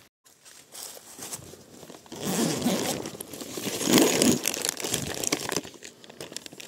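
Crinkling and rustling of thin wrapping being handled by hand, irregular, starting about two seconds in and loudest around four seconds.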